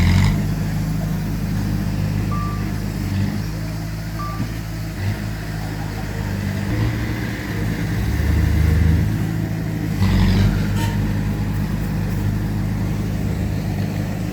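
Diesel engines of heavy earthmoving machinery running and changing revs, with two short high beeps in the first few seconds and a sharp clank about ten seconds in.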